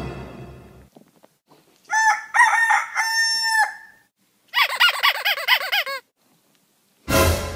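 Music fading out, then two animal calls: the first lasting about a second and a half with a few small pitch turns, the second of similar length warbling rapidly up and down. A sudden loud burst of noise comes near the end.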